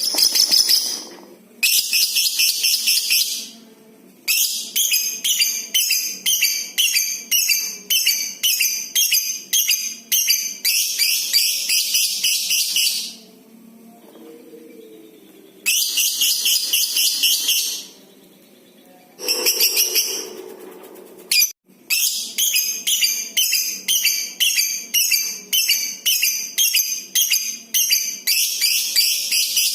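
Lovebird singing the long 'ngekek' chatter: shrill, rapidly repeated notes strung into phrases several seconds long, some running together into a continuous high buzz, with short pauses between phrases.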